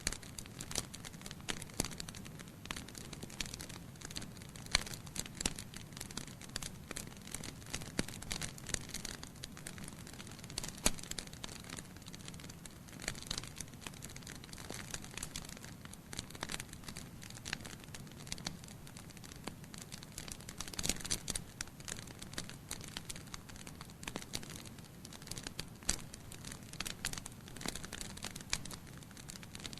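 Wood fire burning in a fireplace: logs crackling with frequent irregular sharp pops and snaps over a low steady rumble of the flames.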